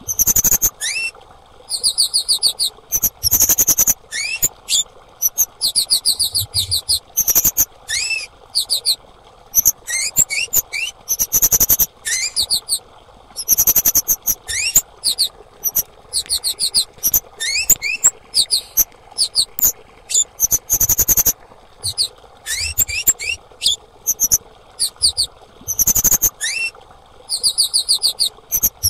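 Female kemade songbird calling continually: bursts of rapid, high, sharp chip notes, broken by short rising whistled notes, over a faint steady hiss.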